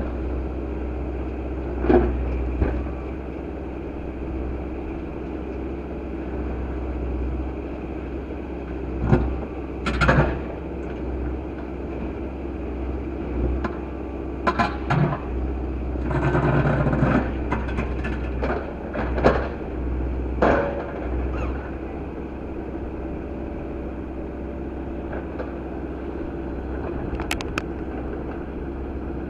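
Tractor engine running steadily under work, with scattered knocks and clunks and a short noisy scraping stretch around the middle as rocks are moved and the ground is levelled.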